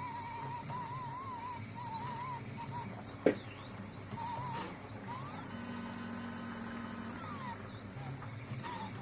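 Stepper motors of a 3D-printed five-axis drawing robot whining as they move, the pitch wavering, then sliding up, holding and sliding back down as the motors speed up and slow. A single sharp click comes about a third of the way in.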